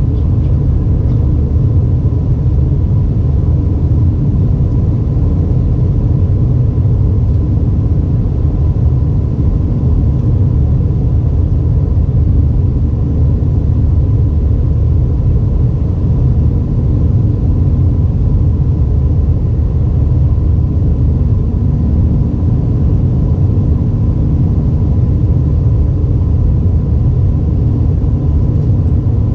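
Steady low rumble inside an Airbus A320 cabin, the drone of the engines and airflow, with a faint steady whine above it.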